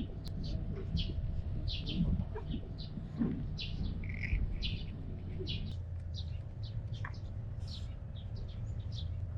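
Small birds chirping over and over, short high notes two or three a second, with a steady low hum underneath.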